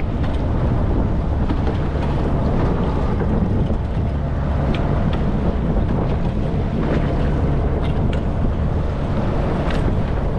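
Boat engine running steadily underway, with wind buffeting the microphone.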